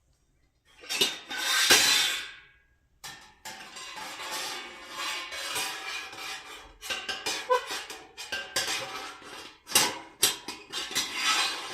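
Metal spit rods scraping, rattling and clinking against the thin metal frame of a lightweight folding fire pit as they are pushed in and repositioned. There is a short scrape about a second in, then almost continuous rattling with sharp clinks.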